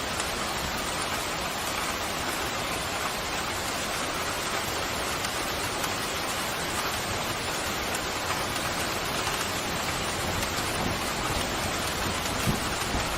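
Pouring rain falling steadily, an even hiss, with a couple of brief low thuds near the end.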